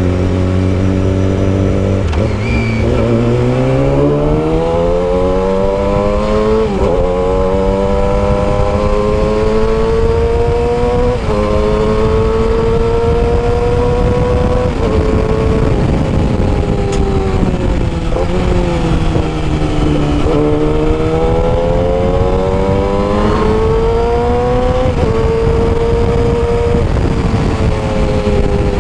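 Yamaha R6 inline-four engine through a custom exhaust while riding: the revs climb with brief drops at each upshift, fall away for a few seconds around the middle, then climb again through more shifts. Wind buffets underneath.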